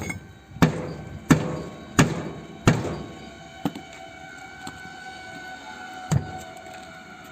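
Hammer blows on a tractor tyre during a puncture repair: five heavy strikes about two-thirds of a second apart, then three lighter knocks spread over the next few seconds, with a steady ringing tone hanging on through the second half.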